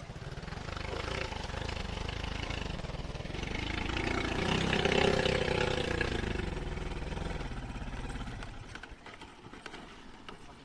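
Motorcycle engine approaching and passing, loudest about five seconds in, then fading away.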